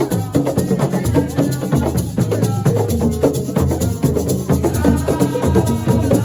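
Loud live band music: a busy beat of drums and shakers over a moving bass line, with some held melodic notes joining about five seconds in.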